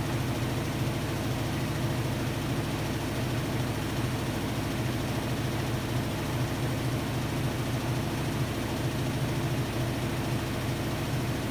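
Hotpoint-Ariston AQD972F washer-dryer running mid-cycle with a steady low hum and a whoosh of noise over it, unchanging throughout.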